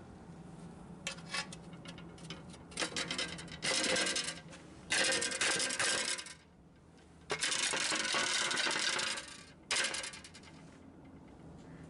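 Metallic scraping and rasping from a BMW 5 Series F10's front wheel, coming in several bursts of one to two seconds over a steady low hum. It is the kind of scrape made by a brake disc dust shield rubbing on the disc, which is the suspected cause.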